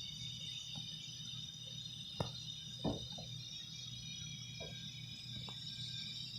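Steady high-pitched chirring of crickets or other insects, with a sharp click about two seconds in and a short knock just after.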